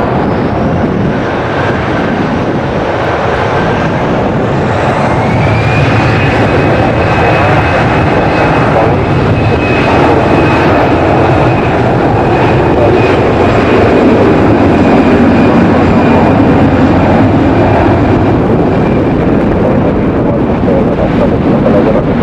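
Jet airliner engines at takeoff power: a dense roar with a whine that rises about four to five seconds in and then holds steady, growing slowly louder.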